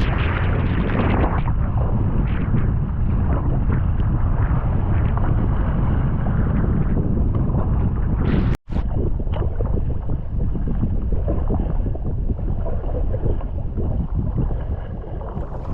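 Wind buffeting the microphone over water splashing and sloshing around a sea kayak. The sound cuts out for an instant a little past halfway.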